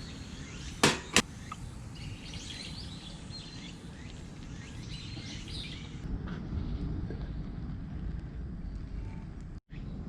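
Two sharp knocks in quick succession about a second in, then birds chirping over a steady low rumble of wind on the microphone.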